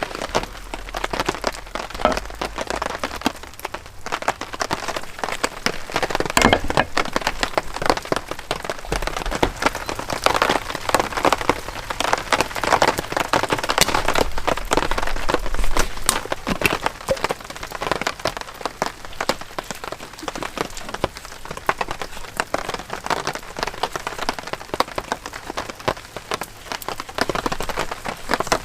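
Heavy rain: dense drops hitting a surface steadily, a little heavier through the middle stretch.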